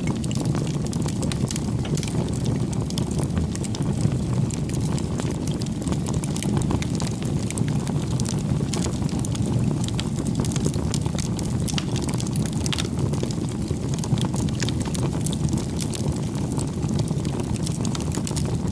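Wood fire burning, with a steady low rush and frequent small crackles and pops.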